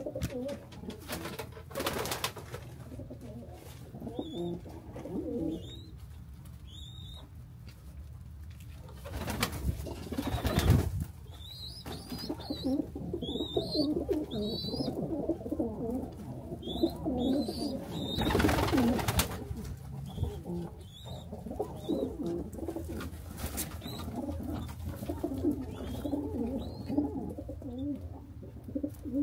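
Pigeons cooing in a coop, a steady mix of low wavering coos, with short high chirps scattered through and a few brief louder rustling bursts.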